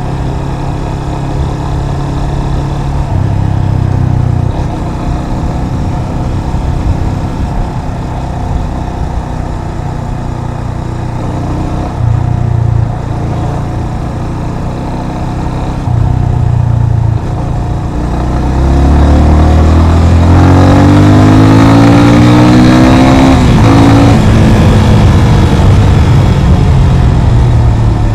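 Yamaha FZ25 motorcycle's single-cylinder engine running under way, with a few short bursts of throttle. Past the middle it gets louder and the engine pitch climbs as the bike accelerates, the pitch rising and falling for a few seconds before settling.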